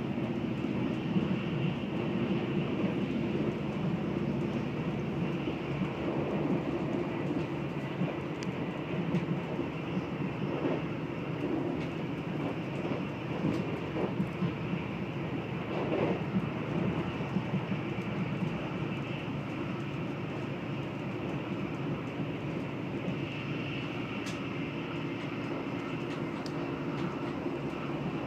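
Electric passenger train running at speed, a steady rumble of the wheels on the track heard from inside the carriage.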